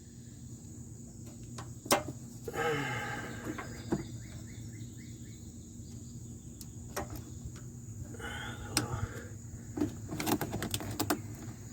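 Scattered light clicks and taps of a small screwdriver and a plastic wheel-speed-sensor connector being pried at, a few seconds apart and then in a quick cluster near the end, over a steady background hum.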